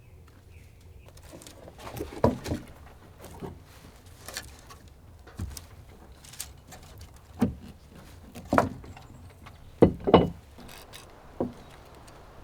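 A series of irregular knocks and clunks, about a dozen spread over several seconds, with the loudest pair about ten seconds in.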